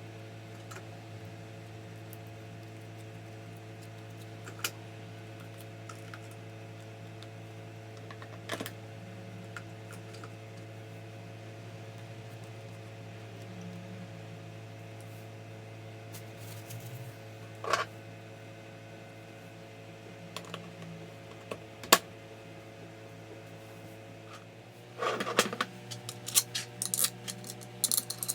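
Scattered sharp clicks and, near the end, a run of rapid clicking and rattling, like small parts and tools being handled on a bench, over a steady electrical hum.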